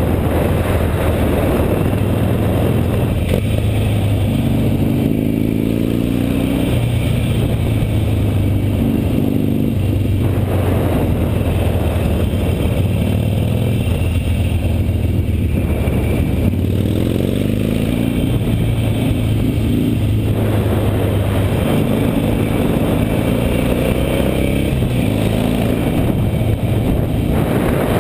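Harley-Davidson Nightster's V-twin engine running under way, its pitch stepping up and down several times as it is throttled and shifted through the bends, over a steady rush of wind and road noise.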